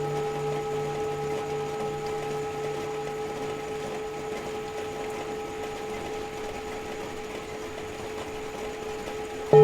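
Tibetan singing bowls ringing on after a strike, several steady tones slowly fading, the lowest with a slow wavering beat that dies away about halfway. Just before the end a bowl is struck again and rings out loudly.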